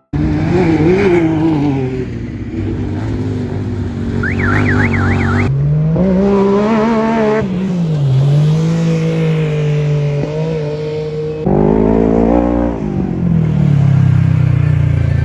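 Off-road racing vehicle engines running and revving, their pitch rising and falling as the vehicles race, with a brief warbling high whine about four seconds in. The sound changes abruptly twice, at about five and a half and eleven and a half seconds.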